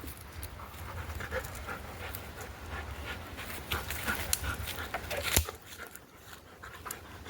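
Labrador retriever panting, with scattered crackles of twigs and leaves in the undergrowth and a sharper snap about five seconds in.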